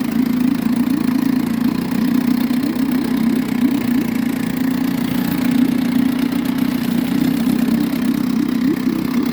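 1973 Sea King 6 hp two-stroke outboard motor running steadily and evenly at a low idle; it purrs like a kitten.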